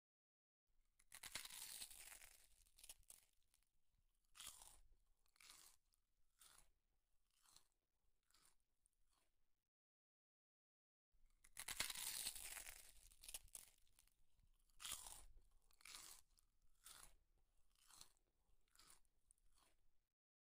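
A person eating rice and curry with her hand, close to the microphone: chewing noises that come in short bursts about once a second, with two longer, louder stretches, one near the start and one just after a brief break in the middle.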